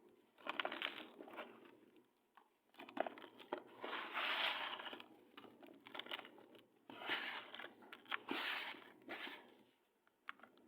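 Dry black sand clumps being crushed and crumbled by hand, crunching and crackling in several bursts of a second or two each, with short pauses between.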